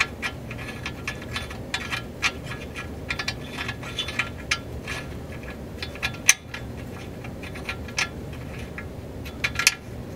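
Nuts being threaded by hand onto the studs at the lower control arm: a string of small, irregular metal clicks and ticks, with one sharper click about six seconds in.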